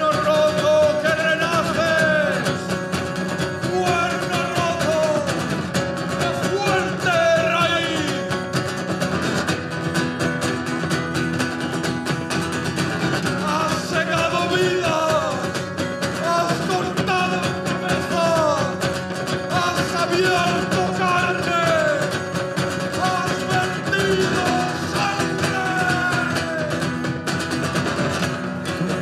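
Live acoustic music: strummed guitar with a gliding melody line over it.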